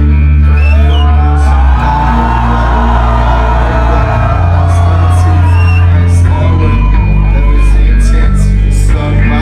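Hip-hop song played live through a loud sound system, with deep held bass notes that change about four and seven seconds in. A crowd is shouting and singing along over it.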